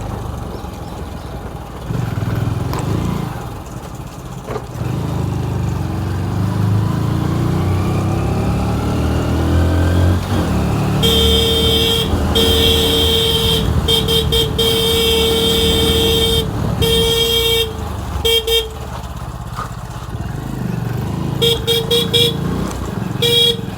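Motorcycle engine running on the road, its pitch rising as it speeds up, then a vehicle horn honked repeatedly in a string of long and short blasts. A few more short toots follow near the end.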